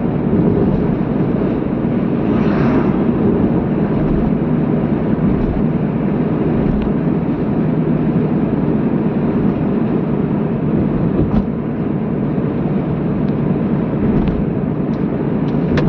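Steady low rumble of a car driving along a road, engine and tyre noise, with a brief swell of hiss about two and a half seconds in and a few faint clicks.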